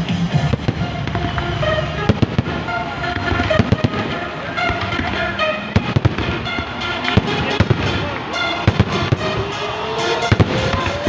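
Fireworks display: many sharp bangs and crackles going off in quick succession, over music playing along, with a rising whistle near the end.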